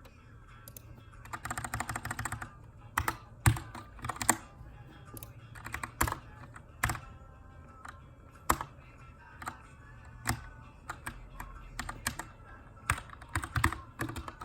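Keychron K2 mechanical keyboard with brown switches, typed on in irregular bursts during text editing: a fast run of keystrokes about a second in, then scattered single keys, some struck harder than others. Faint background music plays underneath.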